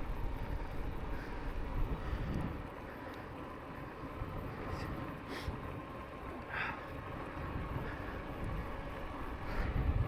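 Wind rumbling over the microphone and tyre noise from a fat-tyre e-bike riding along a cycle path, with a faint steady whine and a few brief faint chirps or clicks.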